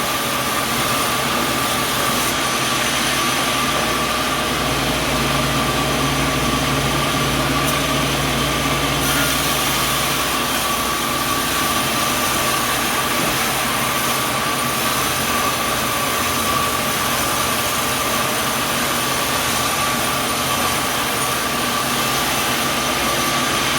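Sawmill machinery running steadily: a constant mechanical drone with a steady high whine, no cuts or knocks.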